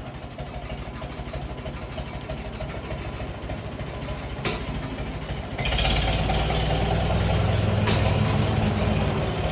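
Farm machinery engine running at a steady idle, then picking up and running noticeably louder and fuller from about halfway through. There is a sharp click about four and a half seconds in and another near the end.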